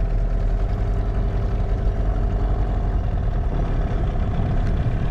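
Boat's outboard motor running steadily at low trolling speed, an even low hum with no change in pitch.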